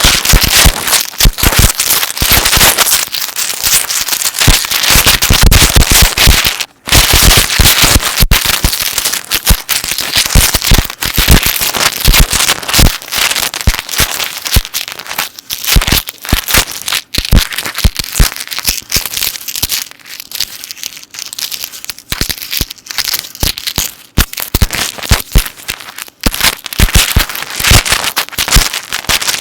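Metal necklace chains handled close to the microphone: a dense, continuous run of small sharp clinks and clicks, with a few brief pauses.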